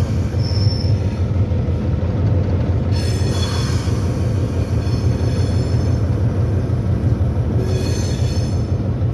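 Diesel locomotive running slowly with a steady low rumble. From about three seconds in, high-pitched wheel squeal rises over it, easing briefly and returning near the end.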